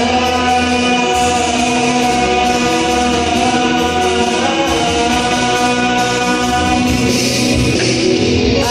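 A band playing a rock cover song, with long held notes and singing over a steady bass.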